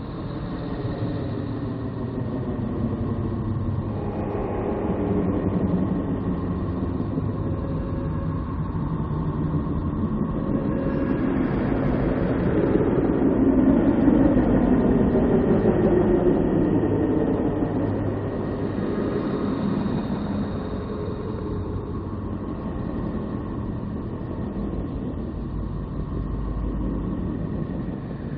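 Sonified spacecraft radio and plasma-wave data: a dense, rumbling drone with wavering tones, swelling to its loudest about halfway through and easing off after.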